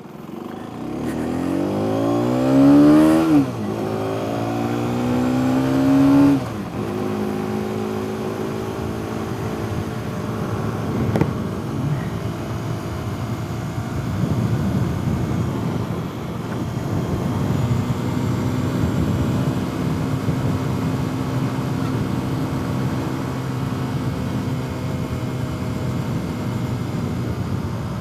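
Aprilia RS 125's single-cylinder four-stroke engine pulling away: the revs rise, drop at a gear change about three seconds in, rise again and drop at another shift about six seconds in, then hold a steady drone at cruising speed.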